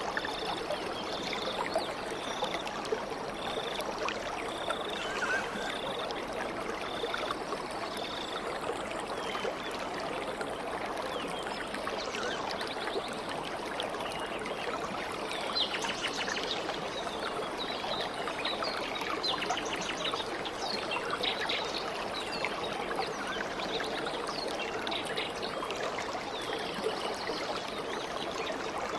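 A stream of water running steadily. Over it a bird repeats one short high note about once a second for the first eight seconds or so, and scattered bird chirps come in about halfway through.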